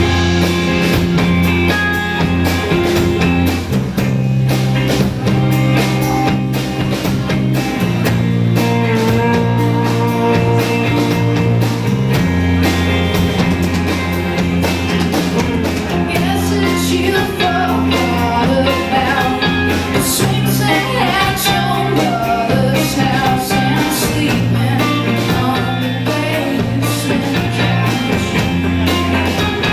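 A live rock band playing a song, with drums, bass and guitar and a woman singing; the bass notes shift about every four seconds under a steady drum beat.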